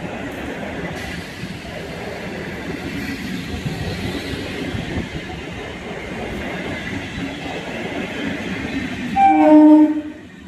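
Indian Railways train running past at speed with a steady rumble of wheels and carriages. Near the end comes a single short, loud horn blast, less than a second long.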